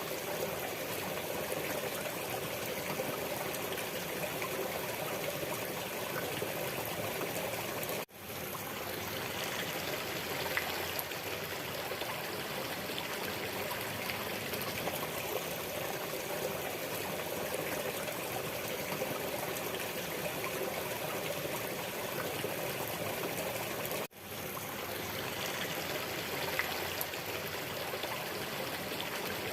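Waterfall: a steady rush of falling water that drops out for a split second twice, about eight seconds in and again about sixteen seconds later.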